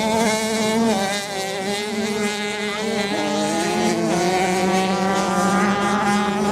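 Several racing motorcycle engines running at once, at different pitches that drift and step up and down as the riders change speed.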